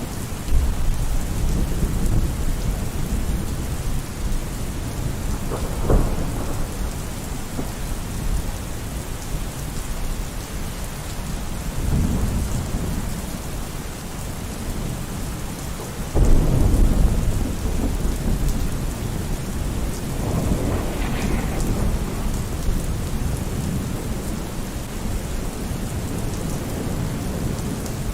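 Steady heavy rain with rolling thunder: several low rumbles swell and fade, with a short sharp crack about six seconds in and the loudest peal breaking suddenly about sixteen seconds in.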